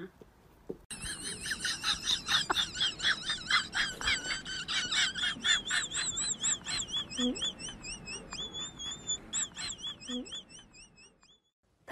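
A long run of rapid, high-pitched chirps, about five a second, each warbling up and down like a small bird's song. It starts about a second in and fades out near the end.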